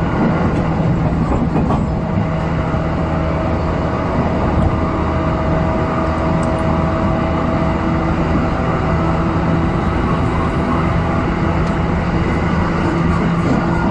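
JR East suburban electric train running at about 115 km/h, heard from inside the car: a steady rumble of wheels on rail with a constant low hum running under it.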